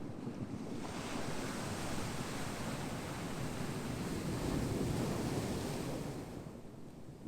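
Ocean surf: a wave washes in, its hiss swelling about a second in, fullest around four to five seconds, then fading away near the end.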